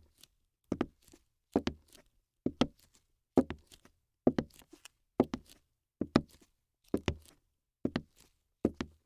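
A steady series of heavy thuds, about one every second, each followed closely by a lighter knock.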